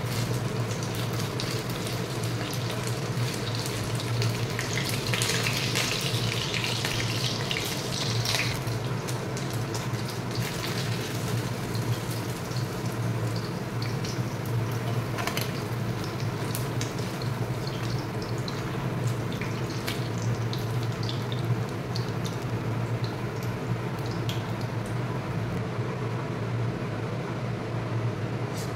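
Paneer pieces sizzling as they shallow-fry in oil in a wok, with a spatula scraping and turning them now and then. The hiss swells for a few seconds about five seconds in, over a steady low hum.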